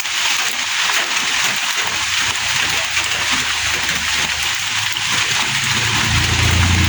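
Steady rain falling, an even hiss. A low rumble comes in about two seconds in and swells louder near the end.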